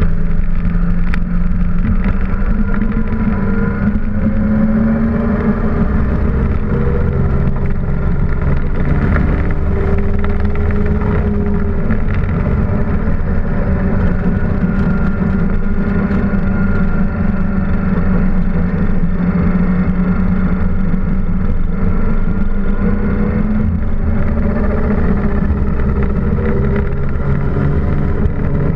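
Datsun 260Z/280Z race car's straight-six engine, heard from inside the stripped, caged cockpit while lapping a track, with the revs repeatedly climbing and falling.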